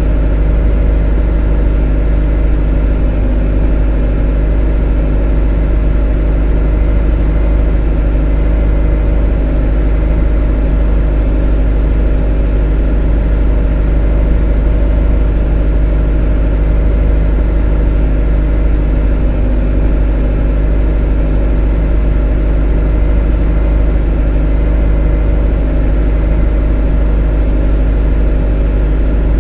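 A motor running steadily with no change in speed: a constant deep hum with many steady tones layered over it.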